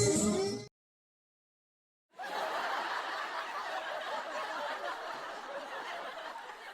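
Karaoke singing and backing music cut off under a second in. After a second and a half of silence, laughter starts suddenly and slowly fades out.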